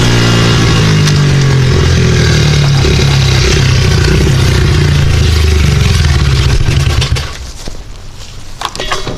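Dirt bike engine running loud and close, with rushing noise over it. The engine sound cuts off suddenly about seven seconds in, leaving a few clicks and knocks near the end.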